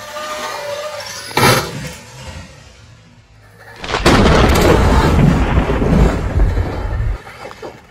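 RC car crashing on asphalt: a sharp knock about one and a half seconds in, then from about four seconds a loud, low rumbling clatter as it comes down, flips and tumbles across the road.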